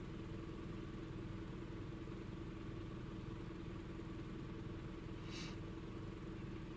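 Toyota four-cylinder petrol engine idling steadily, a constant low hum heard from inside the car. A short faint hiss about five seconds in.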